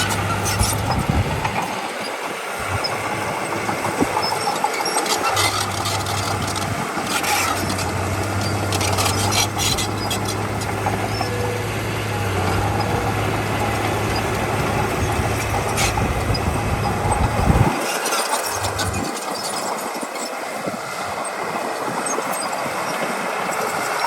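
Diesel engine of heavy earthmoving machinery running steadily, with scattered clanks and rattles. Its low drone drops out for stretches, above all for the last several seconds.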